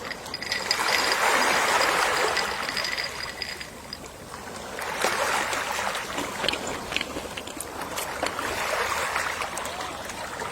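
Gentle sea waves washing onto the shore, the surf swelling and falling away three times.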